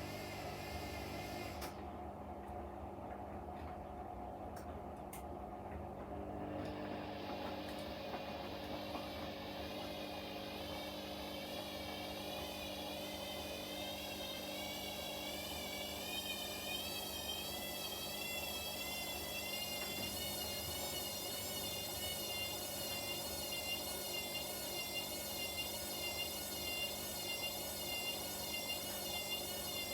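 Front-loading washing machine running, a steady low hum underneath. From about seven seconds in, a high motor whine of several tones comes in and wavers evenly up and down in pitch as the drum spins, growing slightly louder.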